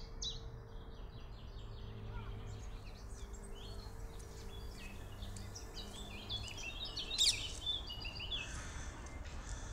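Small birds chirping in short, scattered calls over a steady low background rumble, with one brief sharp sound about seven seconds in.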